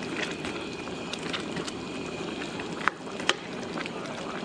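Sauce-glazed chicken sizzling and bubbling in a hot wok while being stirred with a plastic spoon, a steady crackle of small pops. About three seconds in come two sharp clicks, the spoon knocking the wok.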